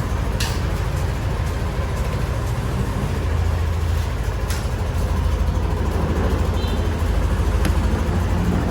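Yamaha NMAX V2 scooter's single-cylinder engine idling steadily just after a jump start from a flat battery, with a few light clicks.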